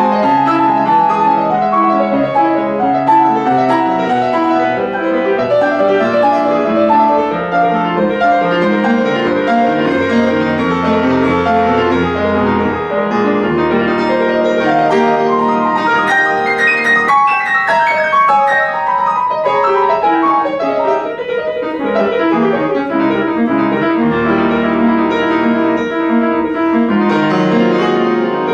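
Solo piano playing a classical piece in quick, running notes.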